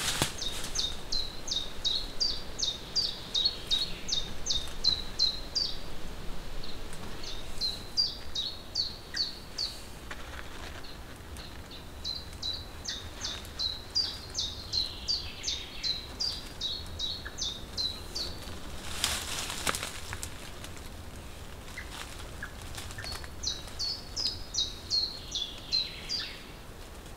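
A songbird singing in bouts of repeated high, downward-sweeping notes, about three a second, each bout lasting a few seconds. A brief rustle about two-thirds of the way through.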